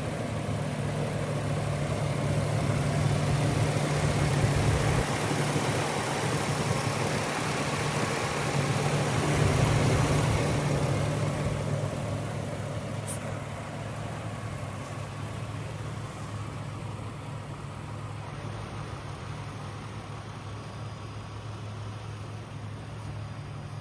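2004 Ford Ranger's 4.0-litre V6 engine running with a steady low hum. It swells louder twice in the first half, then settles to a quieter steady idle.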